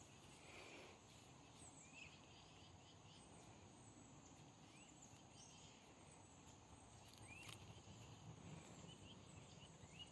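Near silence: faint outdoor background noise with a steady high hiss and a few faint short chirps.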